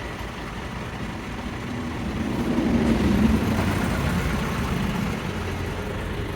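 An engine running steadily, getting louder about two to three seconds in and then easing back.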